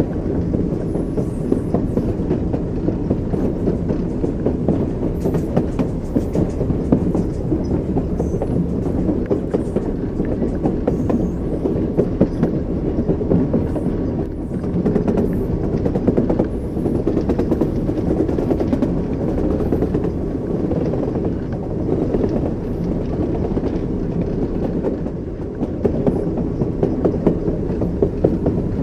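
Train wheels knocking over the rail joints: a steady low rumble of a moving railway carriage with light clicks scattered through it.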